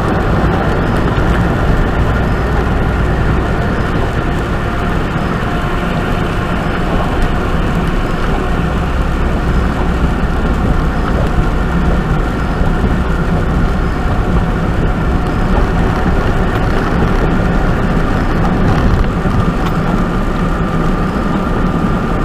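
A truck running at highway speed: a steady drone of engine and road noise, with tyre hiss from wet pavement.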